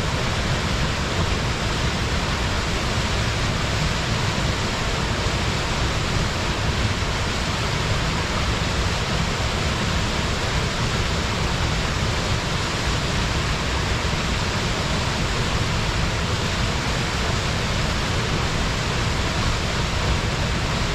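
Waterfall pouring steadily: an even rush of falling water with a deep low rumble underneath.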